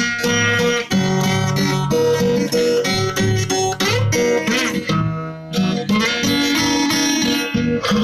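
Guitar music: plucked and strummed guitar over a steady bass line.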